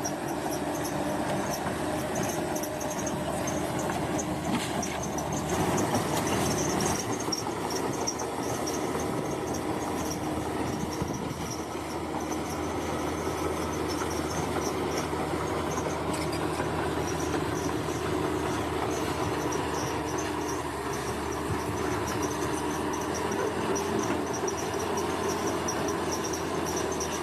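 Bulldozer's diesel engine running steadily at work, with a high, pulsing chirr of insects over it.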